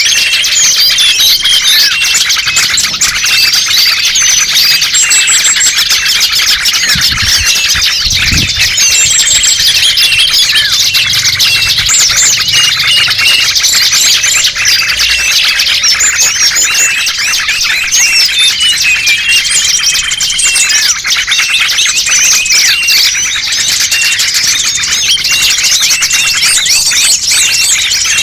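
A dense chorus of many small birds chirping and twittering at once, rapid overlapping high chirps and short trills without a break: a mixed small-bird lure (pikat) recording used to draw wild birds in.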